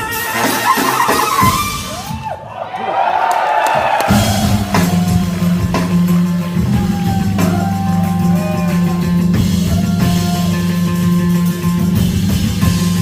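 Live rock band playing: electric guitar lines with gliding notes over drums. The band thins out briefly about two seconds in, then a held low chord comes in about four seconds in under the guitar.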